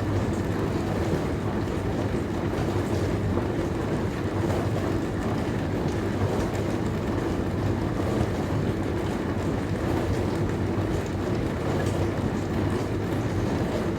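Dishwasher running mid-cycle: a steady low hum with water spraying and sloshing inside the tub.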